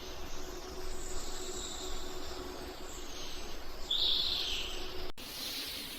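Birds chirping, with a louder call about four seconds in, over a steady high insect-like trill. There is a brief dropout just after five seconds.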